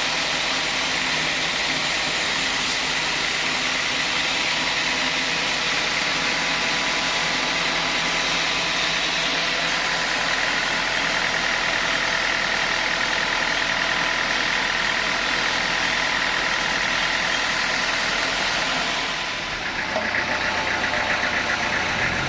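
Sawmill saw machinery running steadily with a continuous mechanical hum. About nineteen seconds in the sound dips briefly, then carries on with a faster pulsing rattle.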